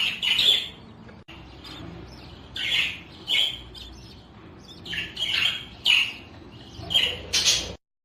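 Budgerigars calling: a run of short, harsh chirps and squawks, several a second in clusters, over a low steady background. It cuts off abruptly near the end.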